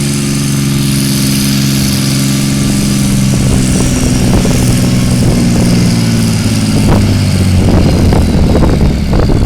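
Pulling tractor's engine working hard under heavy load as it drags a weight-transfer sled down the track, a steady, loud engine note. About a third of the way in the note shifts slightly and a growing rattling crackle joins it.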